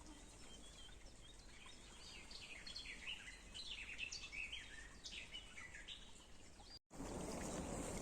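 A songbird singing a rapid series of short, falling chirps over faint outdoor hiss. Near the end the sound cuts abruptly to the steady, louder rush of running stream water.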